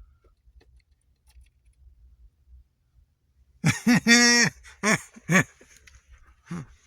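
A man's voice making a few short wordless sounds, one of them drawn out, starting about three and a half seconds in.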